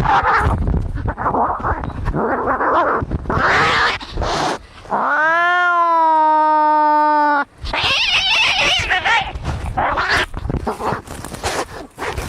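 Cats fighting: hissing, spitting and scrabbling noise with growls. In the middle comes one long, clear caterwaul, a yowl that rises and then holds for about two and a half seconds before cutting off.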